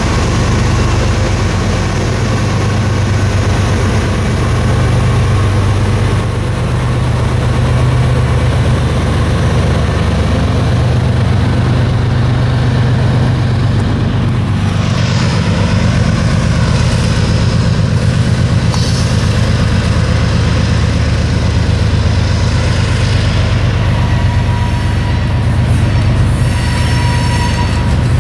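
Coal hopper cars of a slow-moving freight train rolling past close by: a steady heavy rumble of wheels on the rails. A thin squeal from the wheels comes in near the end.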